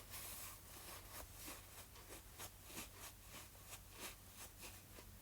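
Near silence: room tone with a steady low hum and faint, irregular light ticks and scratches.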